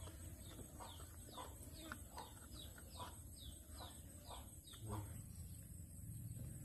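Faint bird calls: a run of short, falling chirps, two or three a second, that stops about five seconds in.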